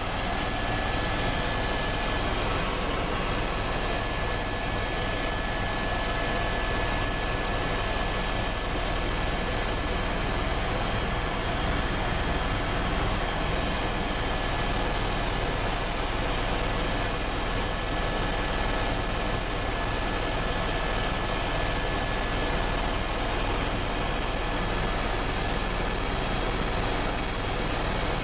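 Helicopter turbine and rotor running steadily: an even, unbroken noise with a thin, constant high whine over it.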